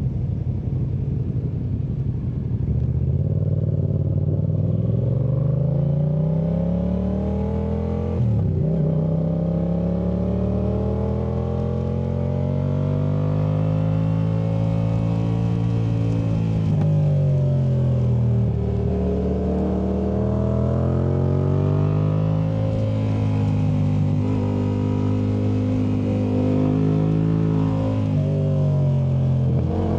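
2019 Yamaha MT-07's parallel-twin engine through a Yoshimura AT2 Race exhaust, revving up and rolling off again and again as the bike is ridden hard through tight bends. The pitch climbs and falls repeatedly, with a sharp break about eight seconds in and again around eighteen seconds.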